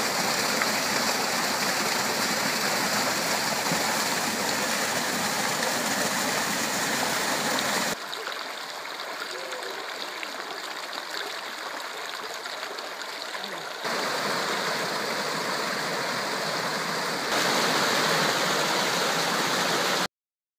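A stream of water flowing and babbling steadily. It drops in level abruptly about 8 seconds in, rises again at about 14 and 17 seconds, and cuts off to silence near the end.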